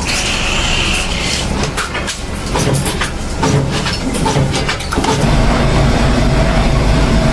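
Metalworking workshop sounds: scattered knocks and clicks of metal work, then a machine motor starts a steady low hum about five seconds in.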